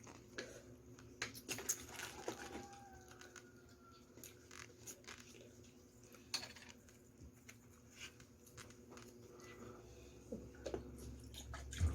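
Faint eating sounds: scattered small clicks and smacks of chewing and handling food, over a low steady room hum.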